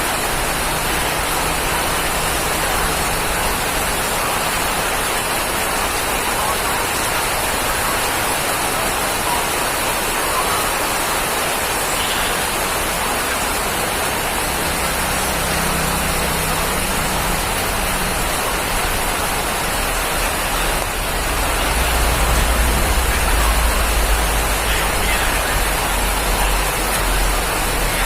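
Steady rain falling in an even, dense hiss. A deep low rumble swells in beneath it about three quarters of the way through and makes the sound louder.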